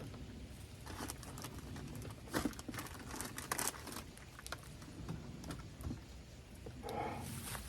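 Food packaging being handled while cooking instant noodles: crinkling and rustling with scattered light clicks and taps.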